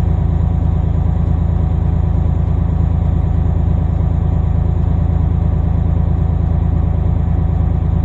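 Semi-truck's Caterpillar diesel engine idling steadily while it warms up toward operating temperature.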